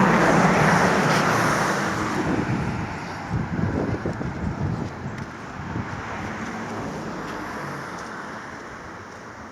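A motor vehicle passing close by, loudest near the start and fading steadily away, with a few light knocks midway.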